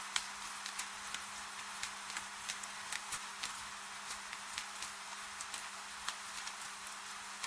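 Gentle rain falling steadily, with many irregular sharp ticks of single drops hitting hard surfaces, over a faint steady low hum.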